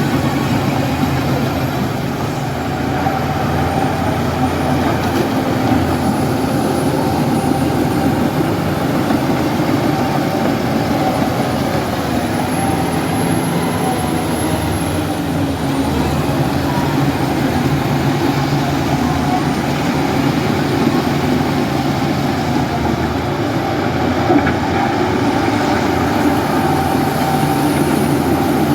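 Heavy diesel engine running steadily, with a faint high whine wavering in pitch above it.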